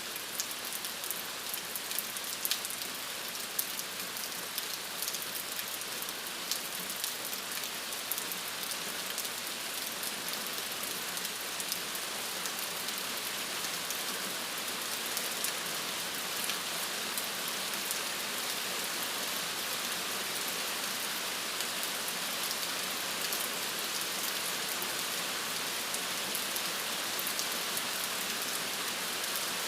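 Steady rain falling, an even hiss with many close drops ticking sharply now and then, more often in the first half.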